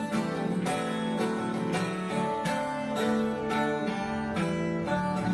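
Acoustic guitar strumming chords, an instrumental passage of background music.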